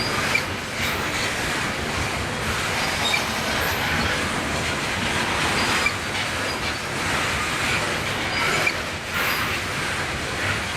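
Freight train rolling past: a steady rumble of cars on the rails, with brief high-pitched wheel squeals and occasional clicks from the wheels over rail joints.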